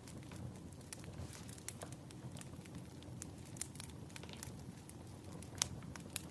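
Wood fire crackling: irregular sharp pops and snaps over a low steady rumble, with one louder pop near the end.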